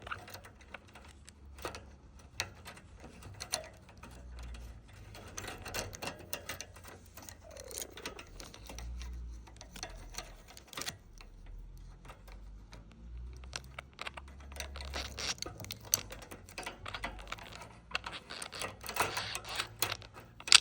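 Male budgerigar chattering: a rapid stream of clicks mixed with short warbled and gliding notes, denser in stretches toward the middle and near the end.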